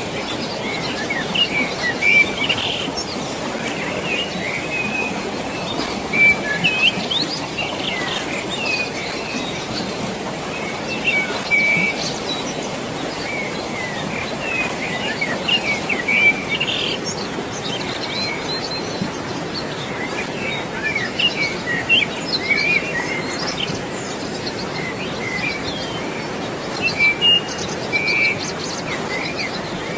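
Many small birds chirping and calling in quick, overlapping phrases over a steady rush of flowing water.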